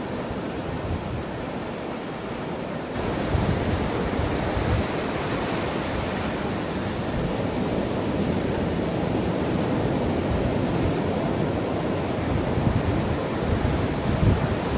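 Sea waves breaking and washing up onto a beach, the wash swelling louder about three seconds in. Wind buffets the microphone now and then in low rumbling gusts.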